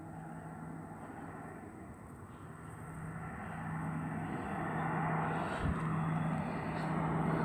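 Twin turboprop engines of a Beechcraft King Air 100 droning with a steady low hum, growing louder from about halfway through as the aircraft comes closer.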